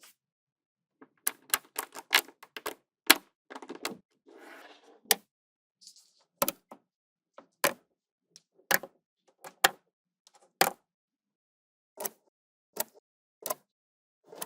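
Small magnetic balls clicking sharply as they snap together. A quick flurry of clicks comes first, then a brief rattle of balls shuffling, then single clicks about once a second.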